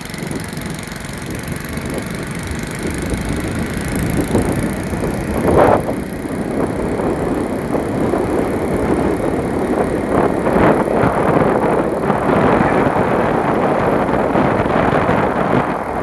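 A vehicle driving along a road: a steady run of engine and road noise that grows slightly louder, with a brief louder swell about five and a half seconds in.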